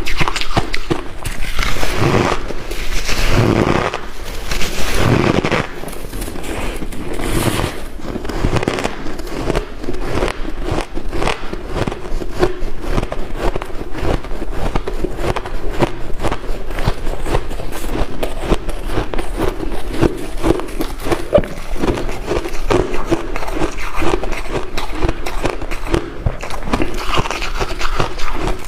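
Close-up crunching of white ice being chewed, a dense run of sharp crackles and crunches with heavier bites in the first few seconds.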